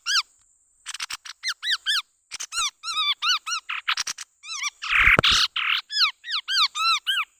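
Chestnut-rumped babbler calls: a fast run of short, squeaky, arched notes, several a second, with a brief harsher, noisier burst about five seconds in.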